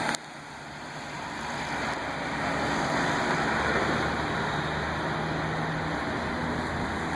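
A vehicle engine running under a steady hiss of wet road and water spray. The hiss builds over the first few seconds, then holds.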